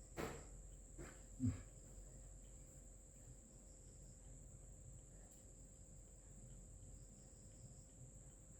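Near silence: faint room tone with a steady high-pitched whine, and three soft knocks in the first second and a half.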